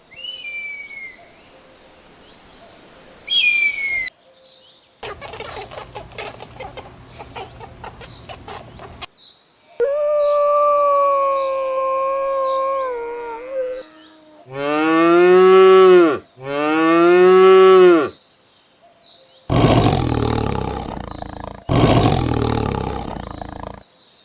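A string of separate farm animal calls cut one after another: high falling chirps, then a rough crackly stretch, then a long steady call, then two rising-and-falling calls, and near the end two loud, rough calls.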